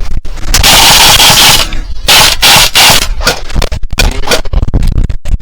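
Several bursts of full-auto fire from an airsoft electric rifle, each trigger pull lasting about a second and stopping sharply. The player puts the poor sound down to a dying gun battery.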